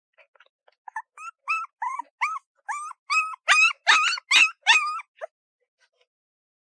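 A puppy giving a rapid series of short, high-pitched yips and whines, about three a second, growing louder and stopping about five seconds in.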